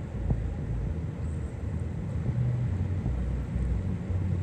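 Low, uneven rumble of a vehicle driving.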